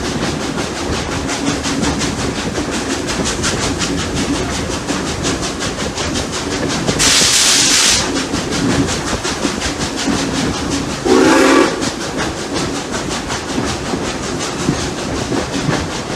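Steam locomotives Rx207 and 621 working up a grade: steady, rhythmic exhaust beats over rail noise. A burst of steam hiss lasts about a second near the middle, and a short steam whistle blast sounds about two-thirds of the way through.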